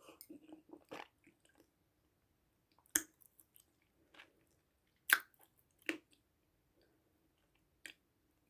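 Close-miked chewing and biting of food, with a handful of short sharp crunches spread through it, the loudest a little past five seconds in.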